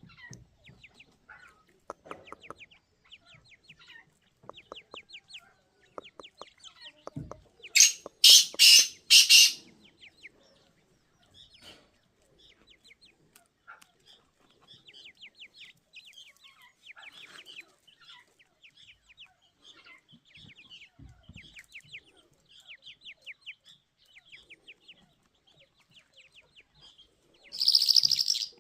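Young teetar (partridge) chicks cheeping in quick runs of short, high peeps. There are three loud harsh bursts about eight seconds in, and another loud burst near the end.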